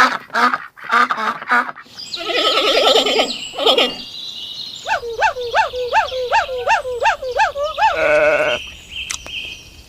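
Farm-animal calls in succession, among them bleating; a run of about ten quick, repeated calls fills the middle, with a high thin steady tone near the end.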